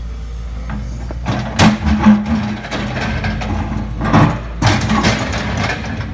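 Excavator's diesel engine running steadily, with several loud clanks and scrapes as its bucket works against solid bedrock: two sharp hits about a second and a half in, and more near the end.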